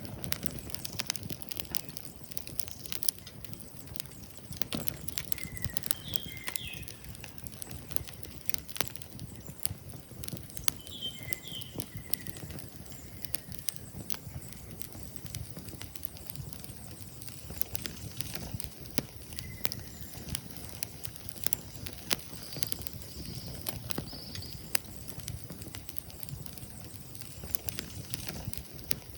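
Wood fire crackling with irregular sharp pops, while a few birds chirp briefly now and then.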